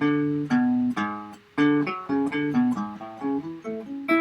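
Guitar played one plucked note at a time, a slow melody in quick succession with some notes repeated, ending on a note left to ring near the end: a single measure of a piece being worked through by itself.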